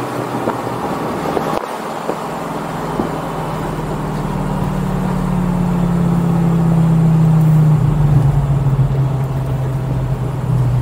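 Straight-piped 5.0-litre V10 of a 2004 Lamborghini Gallardo on the move, its engine note building and growing louder, then dropping to a lower note about three-quarters of the way through.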